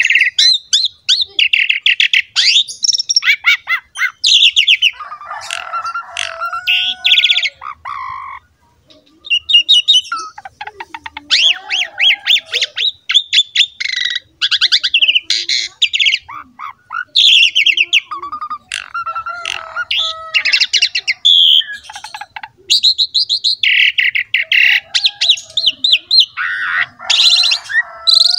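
Javan pied starling (jalak suren) singing at full voice: a long, varied song of harsh, rapid chattering phrases mixed with lower whistled notes, with one short pause about a third of the way through.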